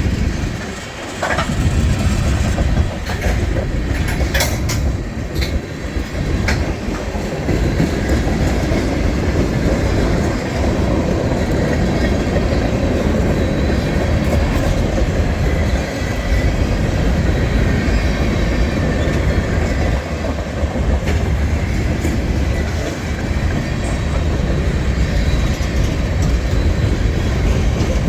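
Freight train rolling past at close range: a steady heavy rumble of cars on the rails, with a few sharp clanks in the first several seconds.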